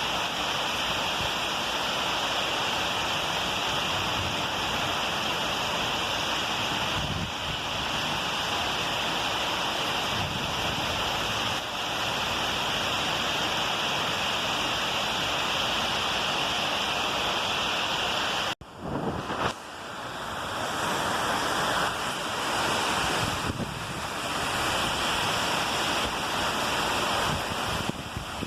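Heavy rain pouring in a windy storm, a steady dense hiss. It cuts out for an instant about two-thirds of the way through, then comes back.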